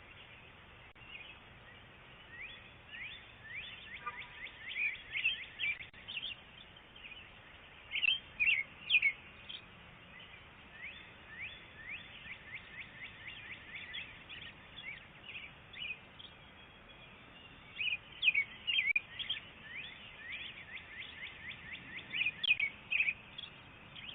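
Small birds chirping over and over in loose runs of short rising chirps, louder in clusters about 8, 18 and 22 seconds in, over a faint steady hiss, heard through a doorbell camera's microphone.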